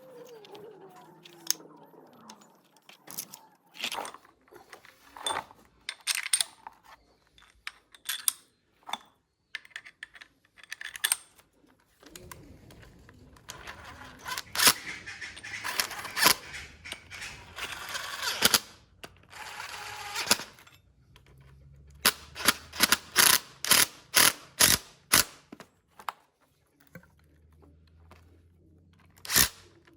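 Irregular sharp metallic clicks and knocks of hand tools working on metal parts, with a busier, noisier stretch midway and a quick run of clicks later on.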